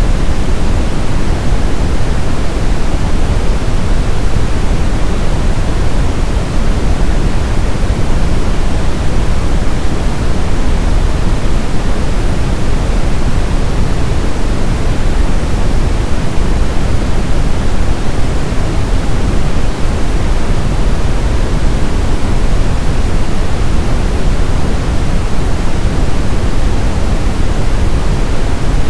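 Steady brown noise: an even, deep rumbling hiss with most of its energy in the low end, unchanging throughout.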